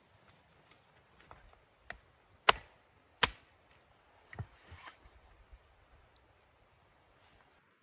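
A few sharp knocks, the two loudest about three-quarters of a second apart midway, with softer knocks before and after.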